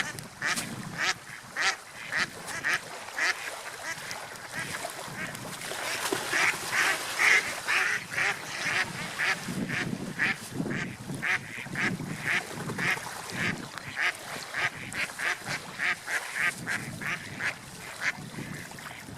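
Ducks quacking: a rapid string of short calls, several a second, loudest and busiest around the middle.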